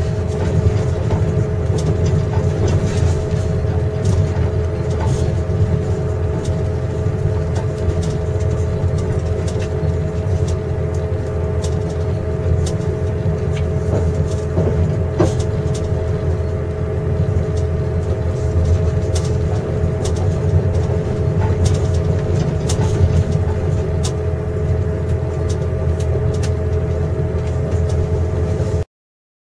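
Passenger train running, heard from inside a compartment: a steady low rumble with two steady hums and scattered light clicks and rattles. The sound cuts off suddenly near the end.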